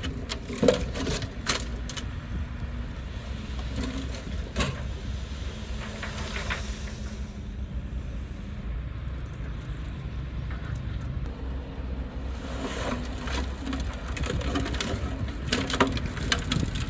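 Bulldozer's diesel engine running with a steady low rumble, with scattered sharp cracks and snaps of breaking wood as it pushes through trees; the snaps bunch in the first few seconds and again in the last few.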